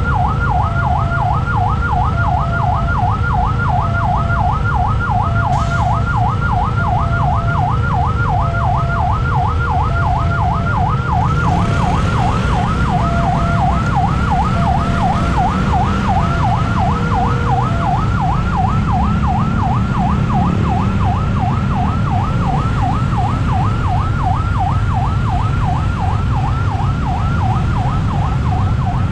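Railway level-crossing warning alarm sounding: an electronic tone that sweeps up and back about three times a second, steady throughout, over a constant low rumble of traffic.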